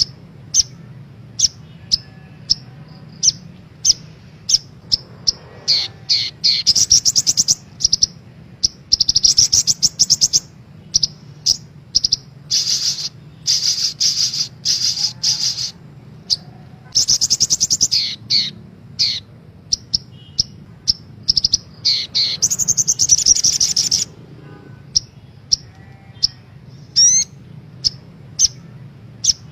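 Sogok ontong (little spiderhunter) song played as a lure: sharp high single chirps at a steady pace of roughly one a second, broken several times by rapid high trills lasting one to three seconds. A faint steady low hum runs underneath.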